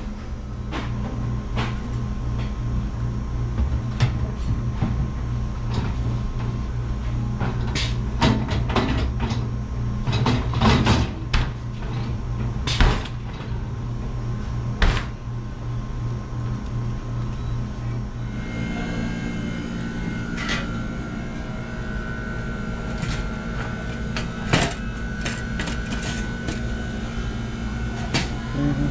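Scattered clicks and knocks of parts and panels being handled and fitted into a refrigeration unit, over a steady low hum. About eighteen seconds in, the background shifts and a steady higher whine joins the hum.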